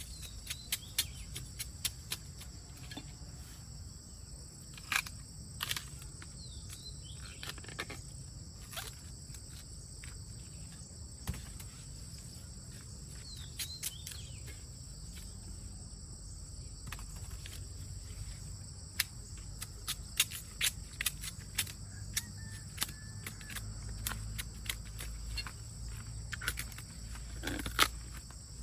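Steady high-pitched insect drone, with many short sharp clicks and snaps scattered throughout.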